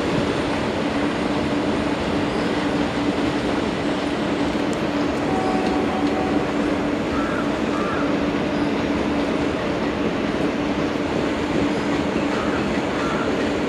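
Indian Railways passenger train running past on the adjacent line: a steady noise of coaches' wheels on the rails, with a steady low hum under it, unbroken throughout.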